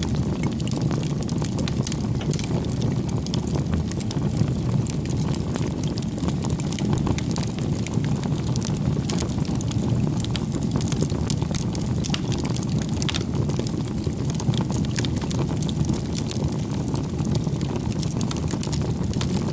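Bonfire burning: a steady low rumble of flame with many small crackles and pops throughout.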